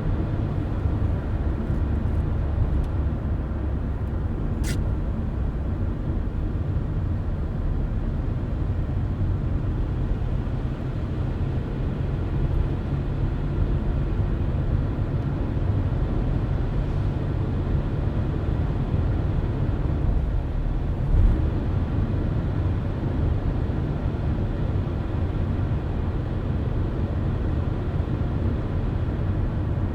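A car driving at steady speed: a constant low road and tyre rumble. There is one short sharp tick about five seconds in.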